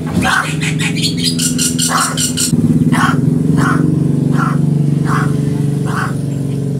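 Crow cawing in a run of about six short calls, roughly two a second, after a flurry of quick high chirps. A steady low hum runs under it and is the loudest sound.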